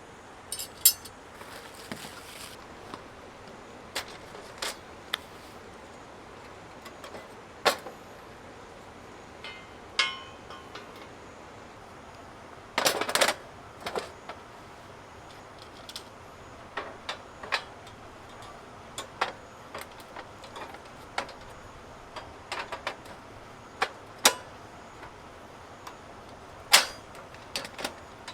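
Irregular sharp clicks and knocks, with a short burst of clatter about halfway through.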